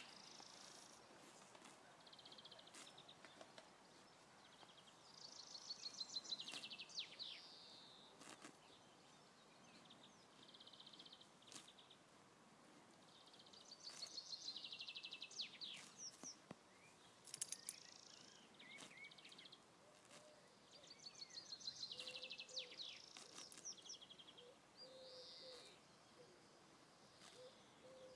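A songbird singing the same rapid trilled phrase of repeated notes three times, about eight seconds apart, with shorter high calls in between, over faint outdoor background noise.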